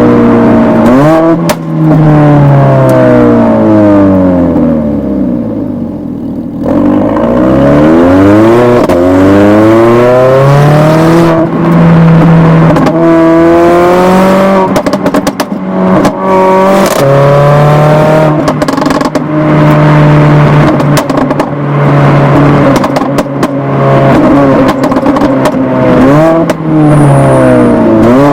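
Mercedes-AMG GLA 45's turbocharged four-cylinder engine and exhaust, its pitch repeatedly falling away and climbing again as the revs change, holding steady in between. Short crackles and pops come through the exhaust note in the second half.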